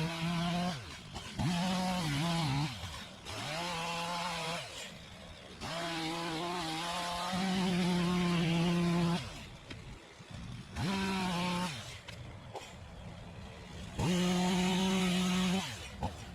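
Chainsaw cutting up a rotten dead tree trunk, revved in about six bursts of one to three seconds with the engine dropping back between cuts.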